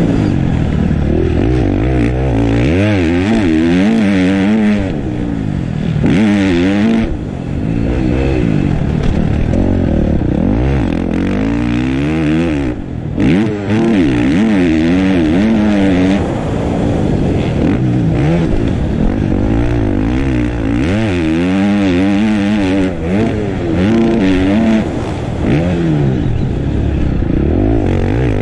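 Dirt bike engines being ridden hard on a motocross track, revving up and falling off over and over, with short lulls where the throttle is shut.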